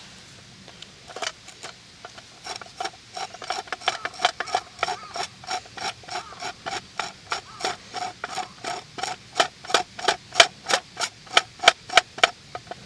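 A steady run of sharp knocks on wood, about three a second, louder toward the end.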